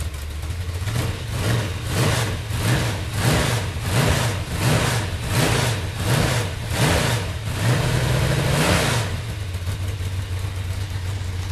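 Chevrolet 454 big-block V8 with a solid-lifter cam being revved on an engine stand: about a dozen quick throttle blips, each rising and falling in pitch, then a longer held rev before it drops back to a lumpy idle about nine seconds in.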